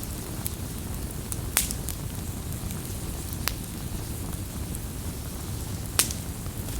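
Wood campfire burning and crackling: a steady low rumble of flames with scattered sharp pops from the burning wood, the loudest snap about six seconds in.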